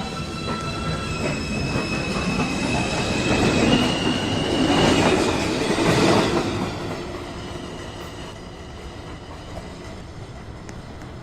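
A 2 train subway train pulling out of the station, its motors whining in steady tones that step up in pitch as it speeds up. The rumble of the wheels swells to its loudest about halfway through, then fades as the train moves away.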